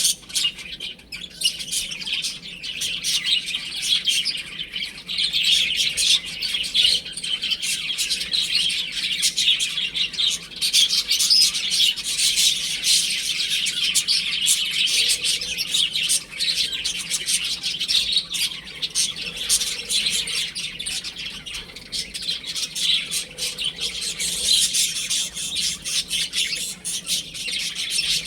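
A group of baby chicks peeping continuously, many high chirps overlapping one another.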